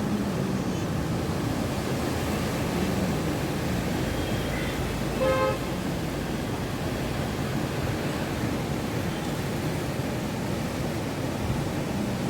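Steady rush of surf and wind off a rough monsoon sea, with a vehicle horn tooting once, briefly, about five seconds in.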